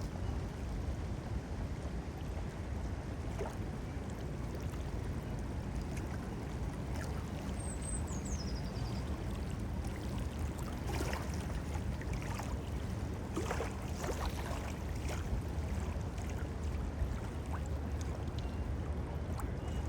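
Gusty wind rumbling on the phone's microphone over water lapping on the lake. A brief high falling call sounds about eight seconds in.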